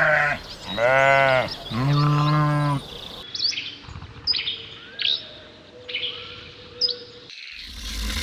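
A goat or sheep bleating three times in a row, each call long and wavering. After a cut, a bird gives a series of short, high chirps.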